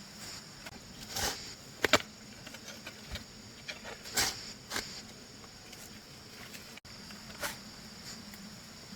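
A digging tool strikes and scrapes into wet soil about six times at an uneven pace while a ditch is dug; the loudest strike comes near two seconds in. A steady high-pitched insect chorus runs underneath.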